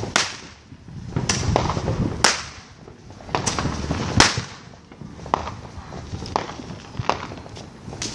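Fireworks and firecrackers going off: a string of sharp cracks and bangs at uneven intervals, with low rumbling between them and the loudest crack about four seconds in.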